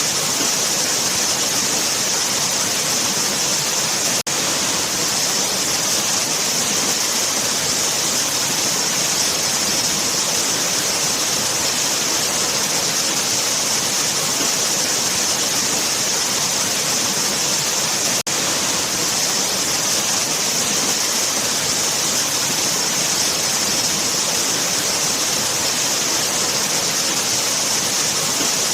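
Waterfall: a steady rush of falling water, an even hiss brightest in the high range. The sound briefly dips twice, about four and about eighteen seconds in.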